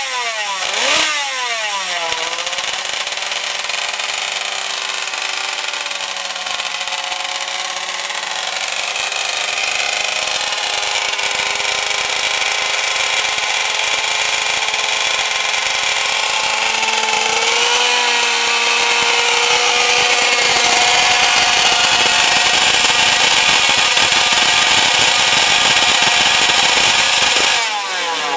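König flat-four two-stroke racing motorcycle engine. It is blipped sharply twice right at the start, then runs steadily with the revs slowly climbing, steps up again a bit over halfway and holds there louder, and falls off sharply just before the end.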